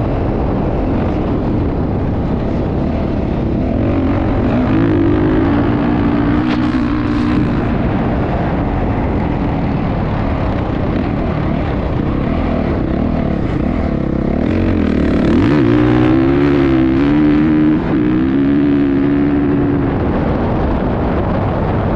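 Motocross bike engine running hard, its pitch rising and falling with the throttle. A dense low rumble of noise lies beneath it.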